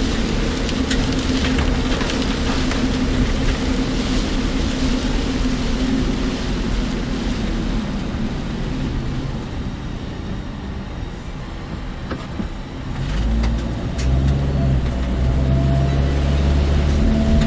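A car driving on wet roads in strong typhoon rain and wind, heard from inside the car: steady road and rain noise with scattered small ticks, and a deeper steady hum that comes up strongly about thirteen seconds in.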